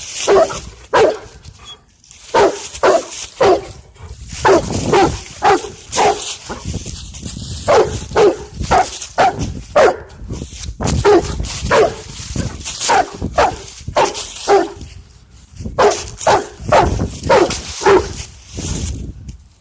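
A dog barking over and over, short barks in quick runs of about two or three a second with brief pauses between runs.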